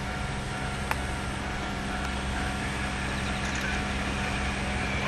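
Freight train of tank wagons rolling past behind Sangi Railway ED45 electric locomotives: a steady rumble with a low hum, growing slightly louder toward the end, and one sharp click about a second in.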